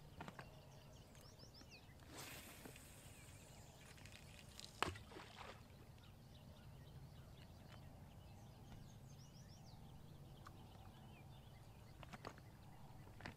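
Near silence with faint birdsong: two short runs of quick chirping notes, plus a few soft clicks, the sharpest about five seconds in.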